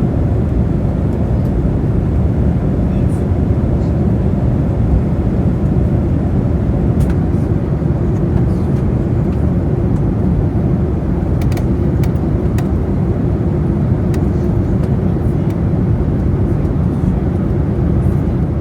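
Steady cabin rumble inside a Boeing 737-800 airliner, the jet engines and airflow giving an even, unchanging roar, with a few faint ticks.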